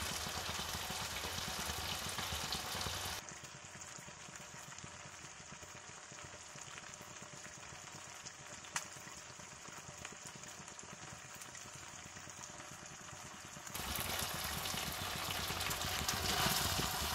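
Prawns frying in shallow oil in a kadai, a steady sizzling hiss. It drops quieter about three seconds in and comes back up a few seconds before the end, with one sharp tick near the middle.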